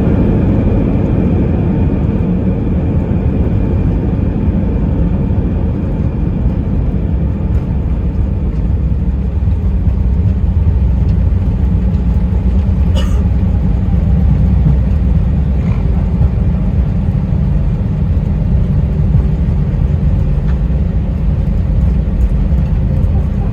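Steady low rumble of airliner cabin noise inside an Airbus A320-232, engines and airframe running, with a faint steady whine that fades over the first few seconds and a single short click about halfway through.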